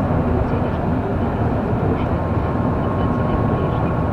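Steady running noise of a car being driven on a snowy road: engine and tyre noise, with a faint steady whine over it.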